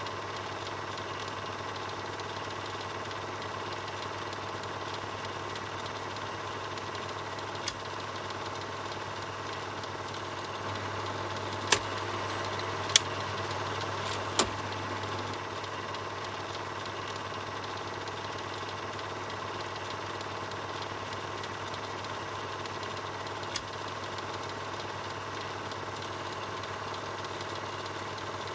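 Film projector running: a steady mechanical whirr over a low hum, with a few sharp clicks, three of them close together about twelve to fourteen seconds in.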